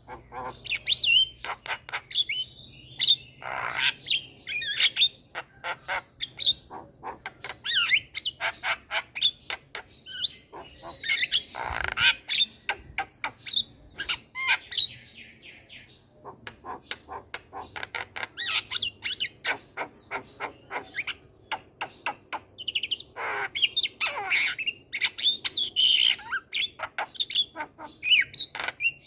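A Javan myna singing continuously: a rapid, busy string of clicks, chirps and whistles broken by a few harsh squawks.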